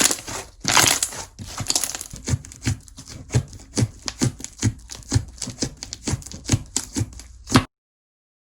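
Slime being squished and pressed by hand, making a quick run of sticky pops and clicks at about three a second, which cuts off suddenly near the end.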